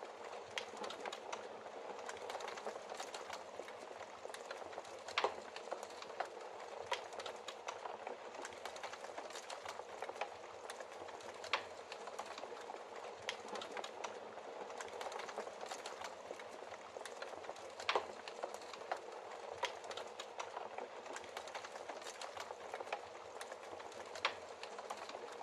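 Logs burning in a fireplace with steady dense crackling and a scatter of sharper pops.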